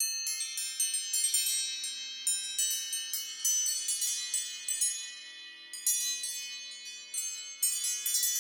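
A chime-style iPhone ringtone: a cascade of high, bell-like notes struck in quick succession and ringing over each other, easing off about halfway before a fresh run of notes begins.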